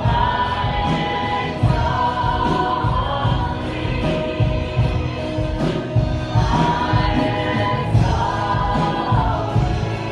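Worship music: a group of singers with a full band, held sung notes over a steady drum beat.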